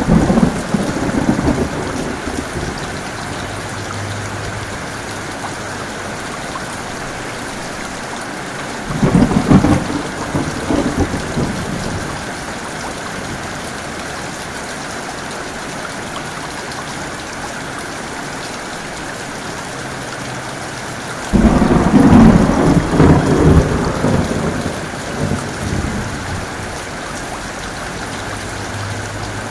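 Steady heavy rain with rolling thunder. One rumble is dying away at the start, another breaks about a third of the way in, and the loudest crashes in about two-thirds of the way through and rumbles on for several seconds.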